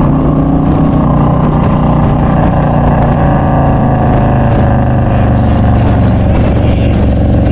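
A motorcycle's V-twin engine runs steadily at road speed, with wind rushing over the microphone. The engine pitch eases down a little in the second half.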